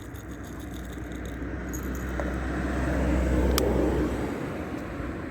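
A car driving past: its engine and tyre noise swell to the loudest point a little past the middle and then fade away.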